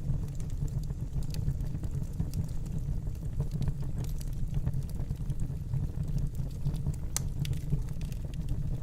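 Wood fire burning in a fireplace: a steady low rumble of flames with scattered crackles and small pops, one sharper pop about seven seconds in.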